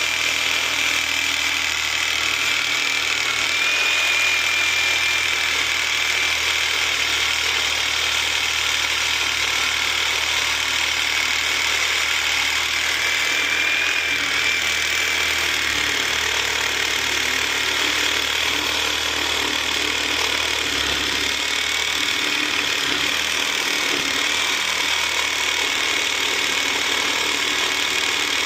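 Power saw running without a break as it cuts into a pool spa heater to free its copper, with a high whine that wavers slightly in pitch.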